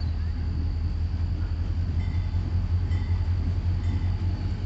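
Freight train rolling through a grade crossing, a steady low rumble, with the crossing bell dinging about once a second from about halfway through.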